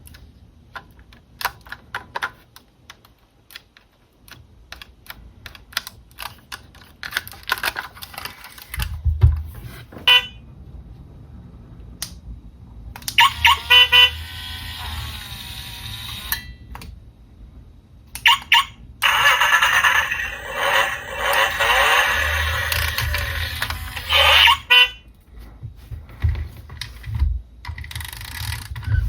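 Small plastic clicks and taps from handling a toy remote-control car and its packaging, then several loud stretches of a pitched, electronic-sounding tone, the longest lasting about five seconds near the end.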